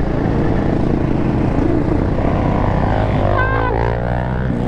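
Dirt bike engines running steadily, with the engine pitch shifting a little past halfway as throttle changes.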